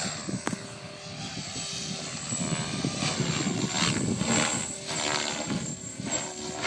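Logo 400 SE electric RC helicopter in flight. A steady high motor whine runs under the rotor blades' whooshing, which swells and fades in surges as the helicopter manoeuvres.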